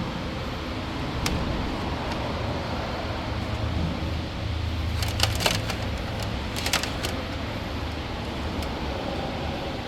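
Plastic zip ties being pulled tight around camera wiring, with two short bursts of rapid ratcheting clicks about halfway through. Under them runs a steady hum of background noise.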